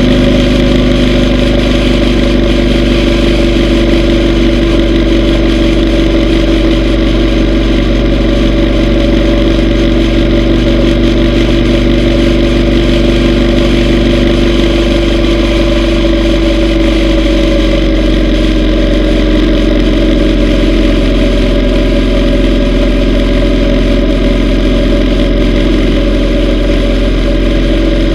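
Yamaha V Star 950's air-cooled V-twin engine running steadily under way, its pitch easing slightly lower about halfway through.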